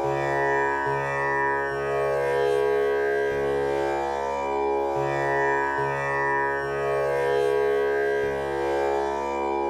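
Tanpura drone tuned to C# for a male voice. Its strings are plucked one after another about every 0.8 s in a steady, repeating cycle, so the rich ringing overtones never die away between plucks.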